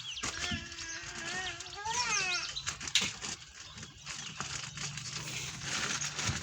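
Small bird chirping in short rapid notes, with a louder wavering, bleat-like call over the first couple of seconds and a sharp tap about three seconds in.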